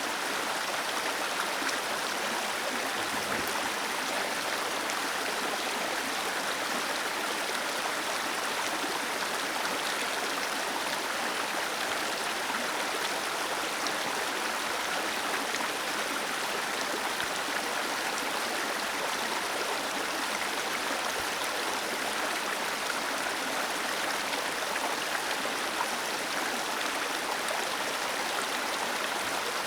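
Small waterfall cascading into a stream: a steady, even rush of falling and flowing water.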